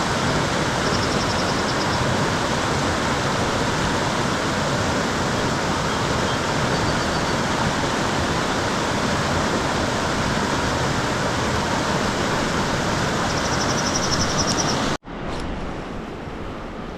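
Rushing river water, a steady loud wash of noise, with a faint high trill near the start and again just before it cuts off abruptly about 15 s in to a quieter wash of water.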